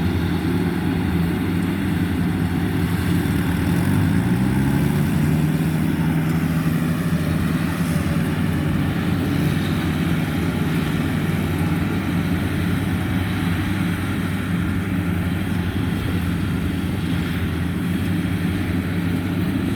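Combine harvester's diesel engine running steadily; its pitch rises a little about four seconds in and then holds.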